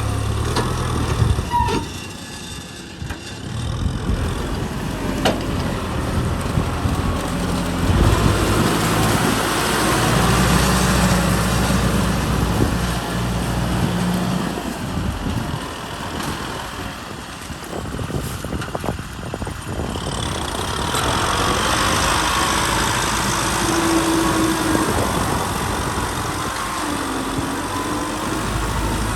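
Kubota M6040 tractor's diesel engine running under load while ploughing, its note rising and falling as the load changes, with a brief drop in level about two seconds in.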